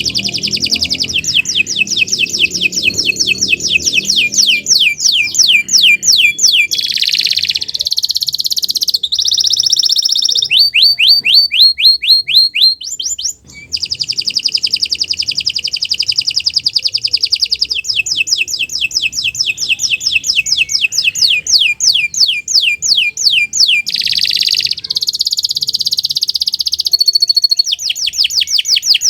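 Domestic canary singing a long, continuous song of fast, high trills and rolls that change phrase every few seconds, broken by one brief pause a little past halfway.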